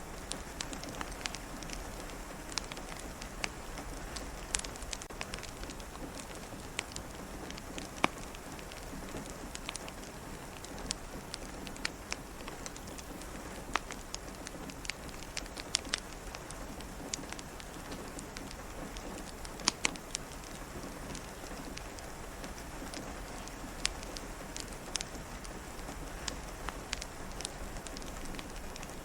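Steady rain pattering, mixed with a fireplace crackling: sharp pops come at irregular intervals over the even hiss of the rain.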